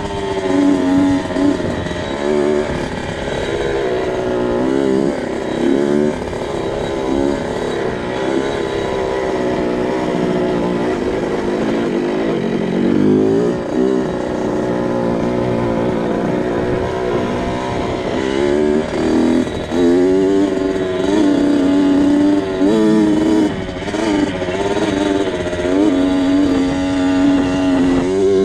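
2002 Kawasaki KX 65's small two-stroke single engine being ridden, its pitch rising and falling over and over as the throttle is opened and closed, with a few stretches of steady running.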